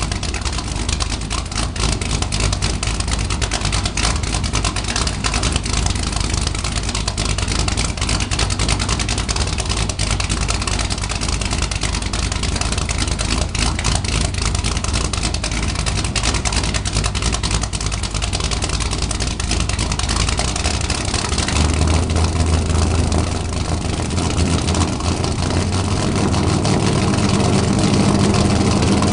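Corvette with straight-piped exhaust running loud and rough; about two-thirds of the way through the note changes to a steadier, even low drone.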